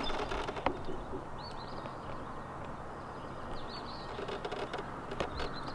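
Birds calling over a steady outdoor background hush: short, high chirps come a few times, with a couple of small clicks from handling.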